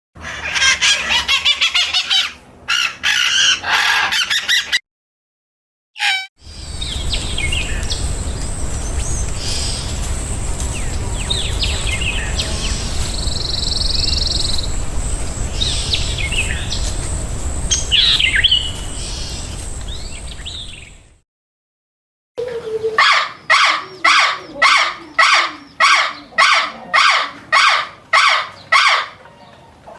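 Wild birds calling in three edited stretches. First dense twittering and chirping, then scattered chirps over a steady low rumbling noise. Last, a call repeated about twice a second for several seconds.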